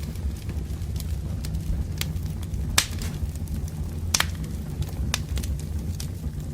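Wood fire crackling over a steady low rumble, with scattered sharp pops, the two loudest a little under three and a little over four seconds in.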